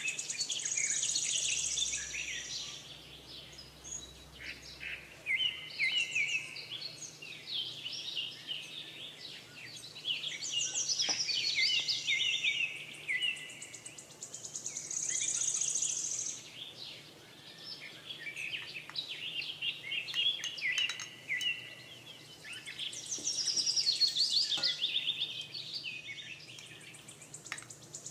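Songbirds singing: bright, rapid chirps and trills in phrases that repeat every few seconds.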